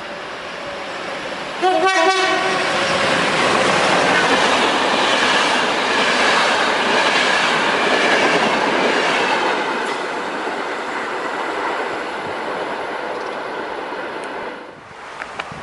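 A train sounds a short horn blast as it reaches the camera, then runs past loudly before the noise drops away near the end.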